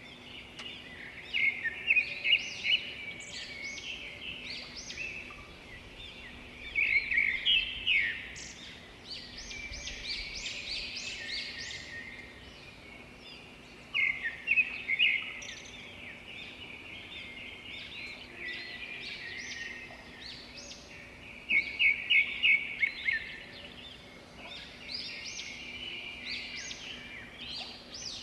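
Several birds chirping and singing, with louder bursts of quick repeated chirps about four times, over a faint steady low hum.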